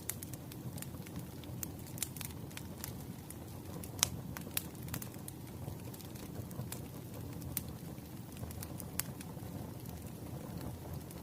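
Wood fire burning in a fireplace: a steady low rumble of flame with irregular sharp crackles and pops from the burning logs, the loudest pop about four seconds in.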